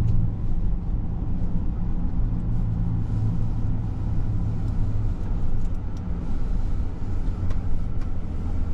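Tow truck engine running steadily while the truck is being driven, a continuous low drone with no change in speed.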